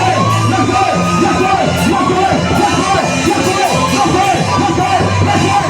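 Loud live church worship music with sustained bass notes and drum or cymbal strikes, and voices singing and shouting over it.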